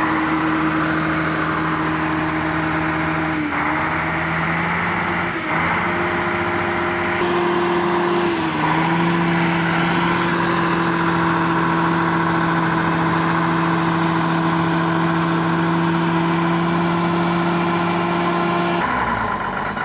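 A road vehicle's engine running at a steady pitch, with a loud hum that steps up or down a few times in the first nine seconds, then holds steady.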